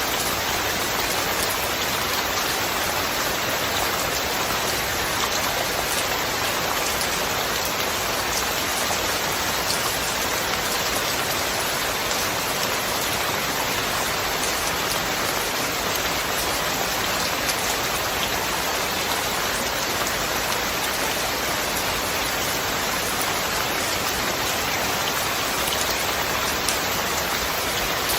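Steady rain falling, an even dense hiss of countless drops on surfaces with fine patter throughout.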